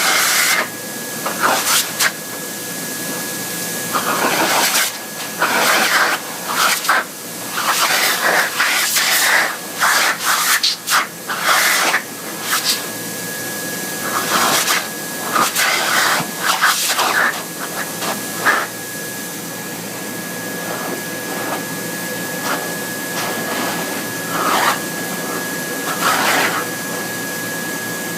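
Pet grooming blow dryer running with a steady rush of air and a thin high whine. Louder gusts come and go through the first eighteen seconds or so and again near the end.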